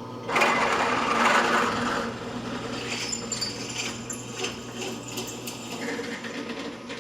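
Power drill running a 5/16-inch bit through a broken bolt in a Farmall Super H's power-takeoff housing, drilling it out to leave a clean hole for tapping. It starts about a third of a second in and is loudest for the first two seconds, then runs on steadily under load.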